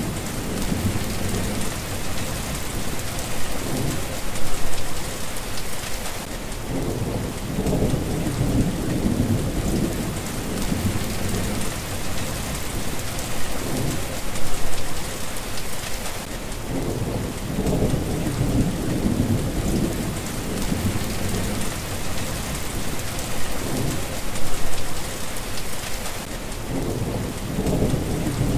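Steady rain with thunder rumbling low underneath, swelling and fading, with three brief louder peaks about ten seconds apart.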